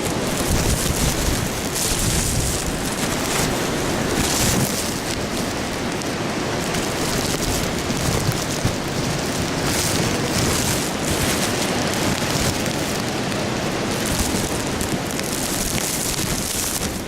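Blizzard wind blowing hard and buffeting the microphone: a steady rushing noise with a low rumble, swelling with gusts several times.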